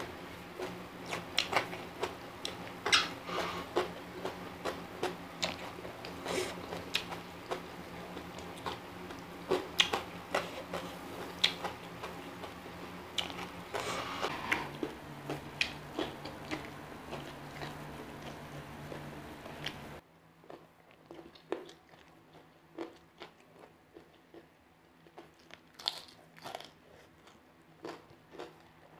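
Close-miked chewing and crunching of food, with many sharp, crisp bite and mouth sounds. A steady low background hum underneath cuts off abruptly about two-thirds of the way in, and the chewing carries on more quietly after that.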